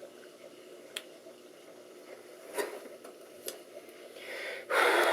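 Small sharp clicks of a connector and computer parts being handled, three of them spaced a second or so apart, over a steady low hum. Near the end a loud burst of noise lasting about a second.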